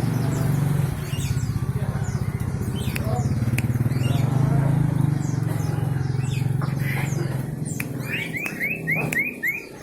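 Common iora (cipoy) chirping, ending in a quick run of about six rising notes. Under it an engine runs steadily and stops shortly before the end.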